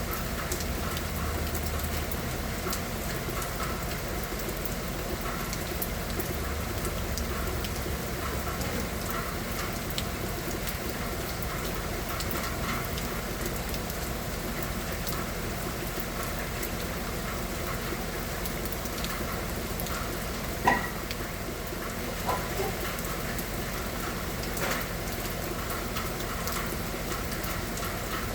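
Steady rain falling, a continuous hiss dotted with small drip ticks. About three-quarters of the way in come a couple of louder, sharper taps.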